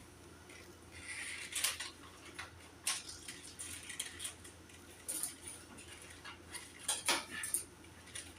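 Small household items and school supplies being handled and sorted by hand: scattered light clicks and clinks at irregular moments, with a brief rustle a little after a second in.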